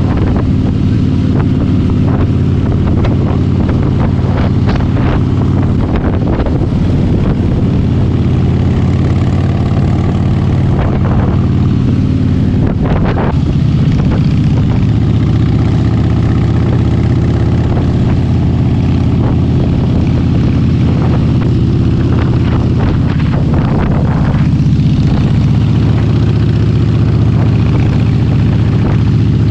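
Harley-Davidson motorcycle engine running steadily at cruising speed, with wind noise on the microphone.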